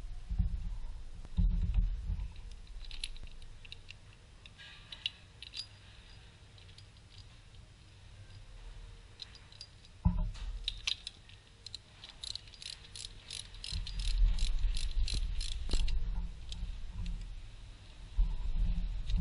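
Metal hand tools clinking and clicking during work on an engine's belt drive, with low handling thumps. About twelve seconds in comes a run of about a dozen even clicks, roughly three a second.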